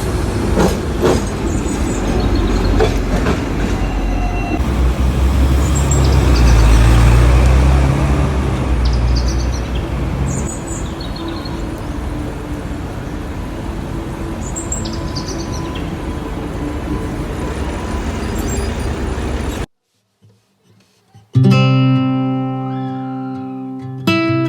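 Low, uneven rumble of a moving vehicle or traffic, with a few short high squeaks or chirps, for about twenty seconds. It cuts off suddenly, and after a short silence strummed acoustic guitar music begins near the end.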